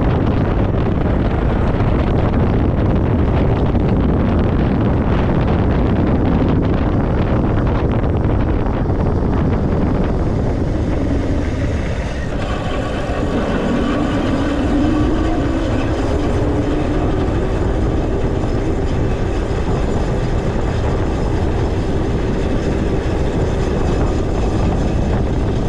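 Wind rushing over the microphone with rolling and rattling noise from a moving e-bike. About halfway through, a whine rises in pitch and then holds steady.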